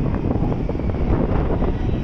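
Tokaido Shinkansen train rolling along the platform: a loud, steady rail rumble with wind buffeting the microphone.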